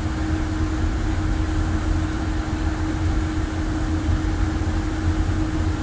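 Steady low rumble of ship's machinery with a constant hum, unchanging throughout.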